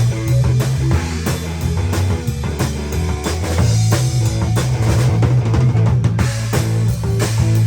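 Live band playing an instrumental rock passage, with the drum kit loudest over steady bass notes and guitar.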